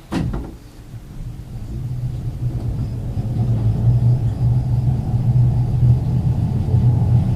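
Ex-Liverpool Corporation electric tram 869 pulling away on the first controller notch: a sharp click right at the start, then the traction motors and wheels on the rails rumble with a low hum that builds over the first three seconds and then holds steady.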